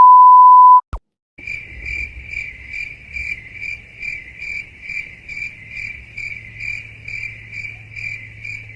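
A loud, steady, high beep lasting about a second, then a click, then crickets chirping steadily at about three chirps a second: the stock "crickets" meme effect for an awkward silence.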